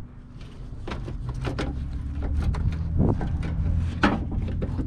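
Sharp plastic clicks and knocks as a car headlight assembly is handled and seated, over a low steady rumble that grows louder through the first few seconds.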